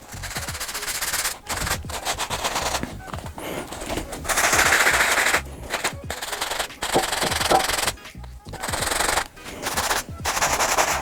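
Soft-bristle brush scrubbing a sneaker with soapy water, in spells of rapid back-and-forth strokes broken by short pauses.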